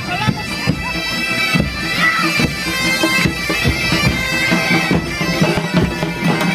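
Bagpipes playing a tune over a steady low drone, with scattered sharp knocks or clicks.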